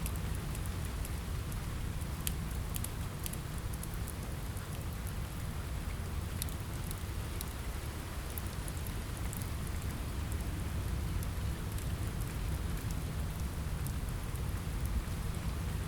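Steady rain with a constant low rush, mixed with a wood fire that gives scattered sharp crackles and pops, clustered a couple of seconds in and again around six seconds in.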